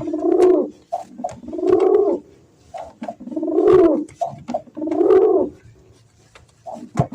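Pigeon cooing: four long, low, wavering coos about every second and a half, with short softer notes between them.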